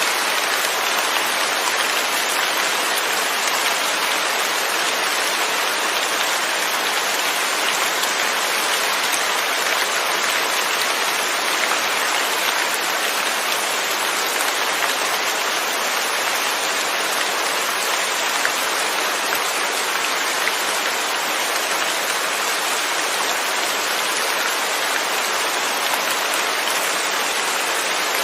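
Steady rain falling, with a constant hiss and fine scattered drop patter and no thunder.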